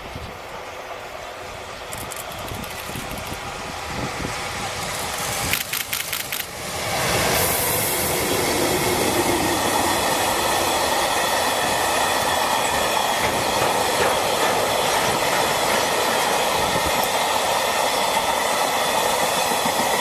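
Freight train hauled by an EH200 electric locomotive approaching and passing close by with a long string of tank wagons. The noise grows as it nears, a quick run of wheel clicks over the rail joints comes as the locomotive goes by about six seconds in, then loud steady wheel noise and clatter as the tank wagons run past.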